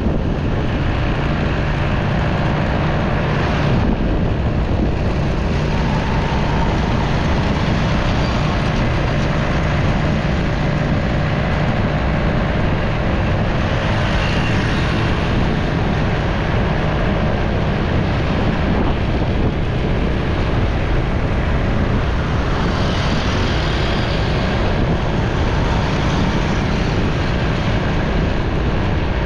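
Motorcycle running at road speed through city traffic, with wind noise on the microphone and the steady sound of surrounding vehicles. A couple of brief louder passages stand out over the steady noise, about halfway through and again some eight seconds later.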